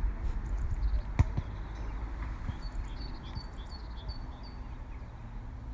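A small songbird singing a series of short, high repeated notes, about two or three a second, mostly in the second half, over a low rumble of wind or handling on the microphone. A single sharp click comes about a second in.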